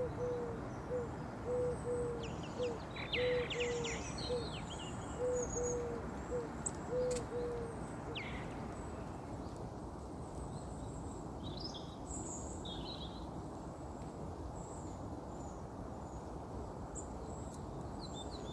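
A bird's low hooting notes, repeated about twice a second and stopping about eight seconds in. Scattered high chirps from small birds and a steady background hiss go on throughout.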